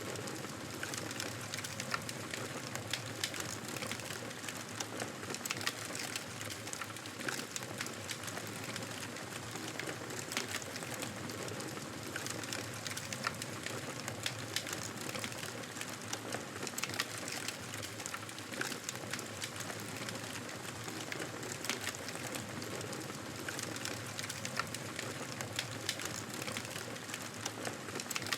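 Wood fire burning in a fireplace: a steady hiss with frequent irregular crackles and pops from the logs.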